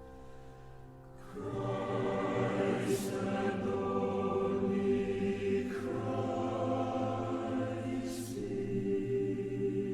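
Music: a choir singing slow, sustained chords, coming in about a second in after a quiet moment, with a couple of soft sibilant consonants.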